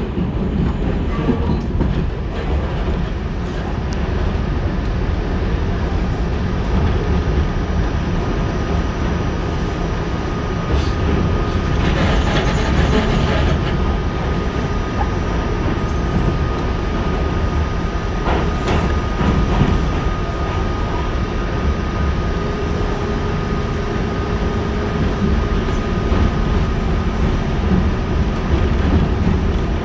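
A 1987 Westinghouse R68 subway car running through the tunnel, heard from aboard: a steady low rumble of wheels on rail, with a few brief clicks and knocks from the track. About two-thirds of the way through, a steady humming tone joins in.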